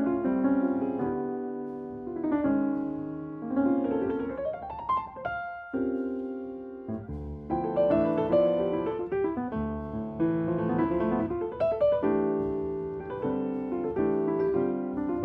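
Piano music: flowing notes and chords, with a quick rising run about four seconds in.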